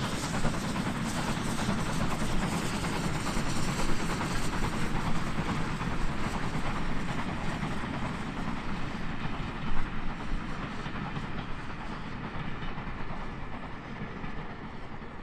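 Steam-hauled heritage train running past on the line, a steady rumble and clatter that fades toward the end as it draws away, with a sharp clunk about ten seconds in.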